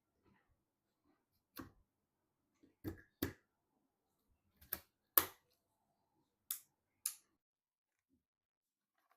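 Computer parts being handled during assembly: about seven short, sharp clicks and knocks at uneven intervals, the loudest a little past five seconds in.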